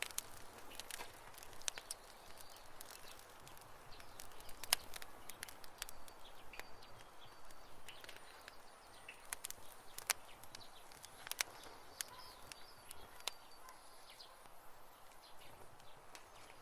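Wood campfire crackling: a steady soft hiss with irregular sharp pops and snaps, a few of them louder. A few faint short chirps sound in the second half.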